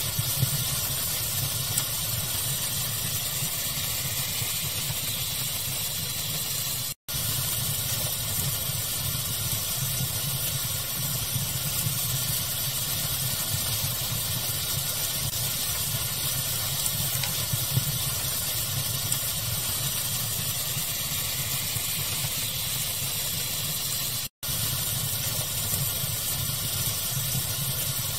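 Steady pink-noise hiss mixed with a crackling fire, with small scattered crackle pops. The sound cuts out completely for an instant twice, about 7 and 24 seconds in.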